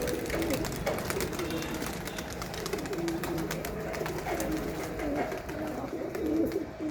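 Several domestic pigeons cooing over one another, low burbling calls that keep repeating, with light scattered clicks and scuffles.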